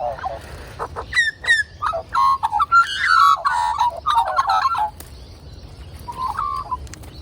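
Australian magpies calling: two short, sharp downward chirps about a second in, then a burst of warbling calls from about two to five seconds, and a shorter call near the six-second mark.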